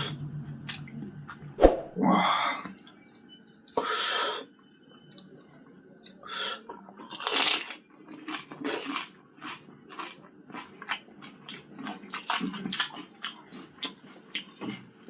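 Close-miked eating of pani puri: crisp hollow puris crunching and being chewed, with quick rapid crunches through the second half and a few longer, louder noisy sounds in the first half.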